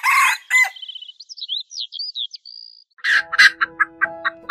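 A chicken's squawking call, followed by quick high bird chirps; about three seconds in, light background music of plucked notes, about four a second, comes in.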